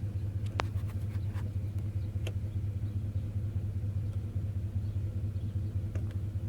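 Vehicle engine idling steadily: a low, even hum with a fast pulse, and a couple of faint clicks early on.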